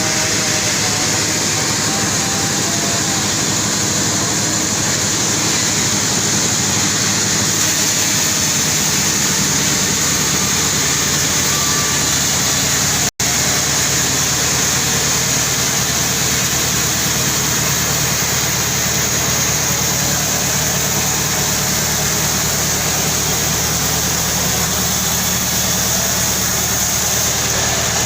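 Sawmill machinery running steadily and loudly during the sawing of a very large albasia log. The sound breaks off for an instant about halfway through.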